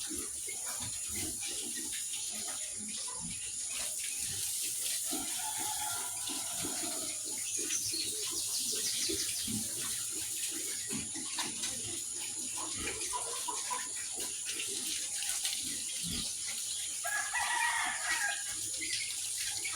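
A rooster crowing twice, about five seconds in and again near the end, over a steady hiss and scattered small clicks.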